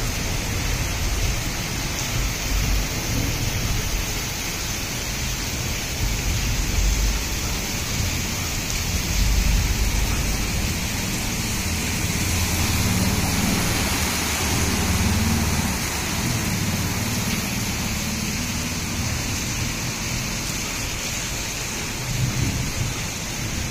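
Heavy rain falling steadily, with a low rumble that swells and fades several times underneath.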